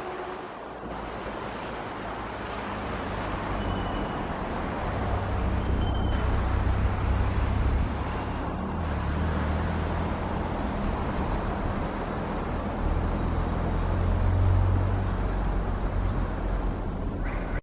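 City road traffic: steady traffic noise with a low engine rumble that swells twice as vehicles pass.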